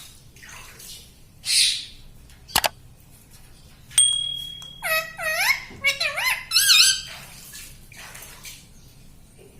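Ringneck parrot vocalizing: a run of short, high calls that swoop up and down in pitch, about five to seven seconds in. A sharp click and a soft rustle come earlier.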